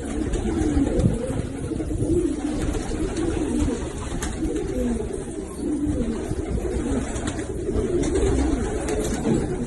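Several domestic Pakistani pigeons cooing, their low, wavering coos overlapping one another without a break.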